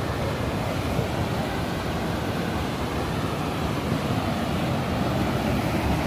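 Steady rushing of the Panimur waterfall, water pouring over rock ledges into a churning pool.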